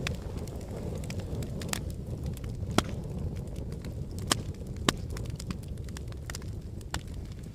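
Volcanic lava flow: a steady low rumble with scattered sharp cracks and clinks, the loudest about three and five seconds in.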